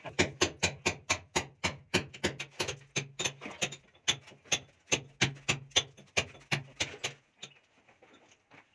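Rapid, even knocking: sharp strikes about three to four a second over a low steady hum, both stopping about seven seconds in.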